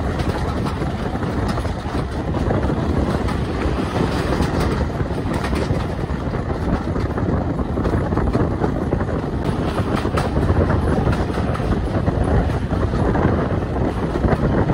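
Passenger train running along the line, heard from an open carriage window: a steady rumble and rush of wheels on rail and moving air.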